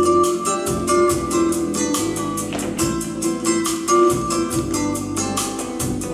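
Instrumental music: an acoustic guitar strummed in a quick, even rhythm, with a few held notes over it. This is the instrumental introduction before the singing starts.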